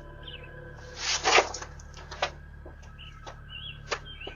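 Small birds chirping now and then over a steady low hum, with a loud rush of noise about a second in and a few sharp clicks later on.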